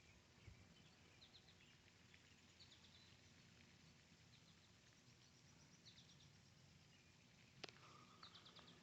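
Near silence: faint outdoor ambience with small birds chirping in short, quick series now and then, and a single click about seven and a half seconds in.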